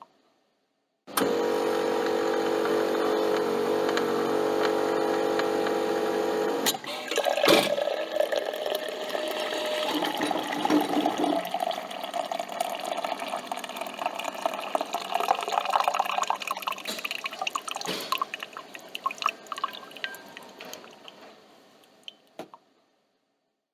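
Coffee machine running: a steady hum starts about a second in and lasts about six seconds. After a click, coffee pours and drips into the cup, gurgling and fading away near the end.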